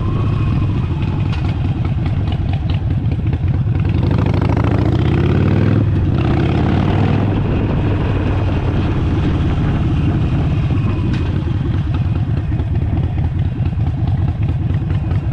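Harley-Davidson Forty-Eight's air-cooled 1200 cc V-twin running as the bike rides along, its pitch rising under acceleration about four to six seconds in, then dipping briefly and climbing again.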